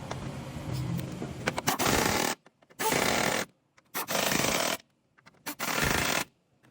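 Impact wrench run in four short bursts, each under a second long, with abrupt cuts between them, undoing or driving the bolts of a Hyundai Sonata engine mount.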